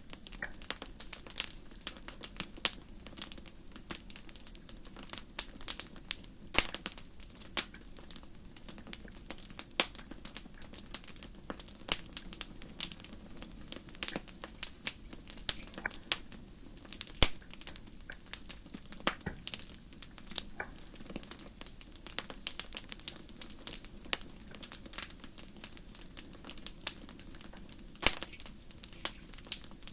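Fire crackling: irregular sharp pops and snaps, several a second, over a steady low rush of burning.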